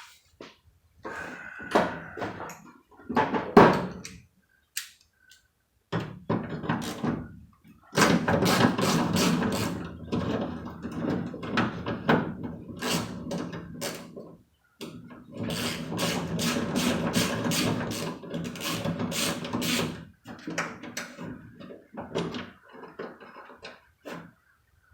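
Tool work loosening the bottom bolt of the window track inside a truck door: scattered knocks and clicks, then two stretches of several seconds of fast, repeated clicking as the bolt is worked out.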